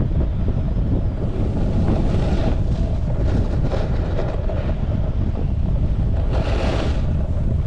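Wind buffeting the microphone in a steady low rumble while a snowboard slides over packed snow. The board's edge scrapes the snow in a few short hissing swells, the longest about six and a half seconds in.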